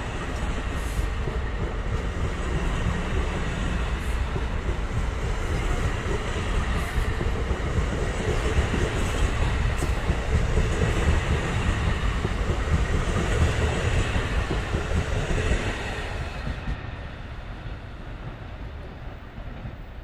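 A commuter train passing on the tracks: a heavy rumble and wheel noise that builds to its loudest midway and fades away over the last few seconds.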